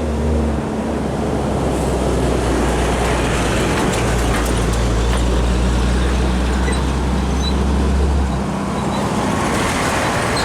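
Heavy truck engine droning low as it drives past on the road, over steady traffic and tyre noise; the deep drone eases off about eight seconds in.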